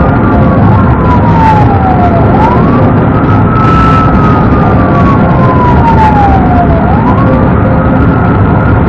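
Police car siren in wail mode: a tone that climbs quickly and then falls slowly, repeating about every four and a half seconds, over steady engine and road noise from the pursuing car.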